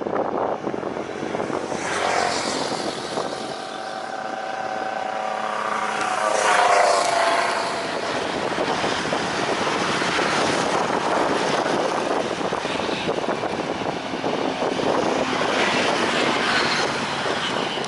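Jet airliner engines as the plane passes, a steady rushing noise with whining tones that shift in pitch, loudest about seven seconds in.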